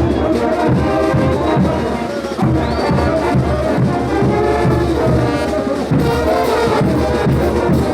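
Bolivian brass band playing ch'uta dance music: trumpets and trombones carry the tune over low brass and drums keeping a steady beat.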